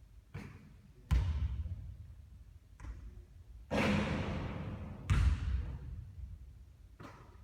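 Basketball bouncing on a court: a few separate heavy thuds, with a longer rushing noise lasting about a second a little before the middle.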